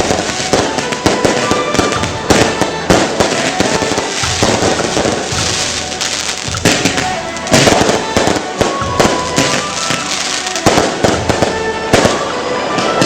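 Fireworks going off in quick succession: a dense, irregular barrage of bangs and crackling with no pause.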